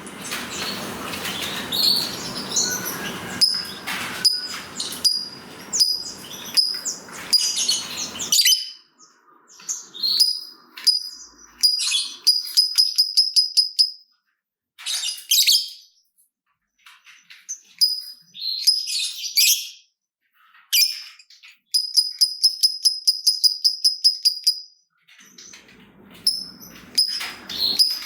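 Lovebird chattering in shrill high chirps and long, rapid runs of repeated notes: the long 'ngekek' trill that keepers prize. A rough rustling noise with clicks lies under the calls for the first third.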